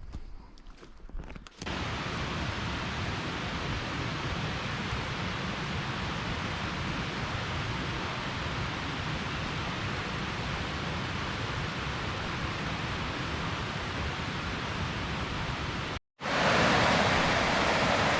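Steady rush of running water, an even hiss that sets in sharply about a second and a half in. Near the end it cuts out briefly and comes back louder.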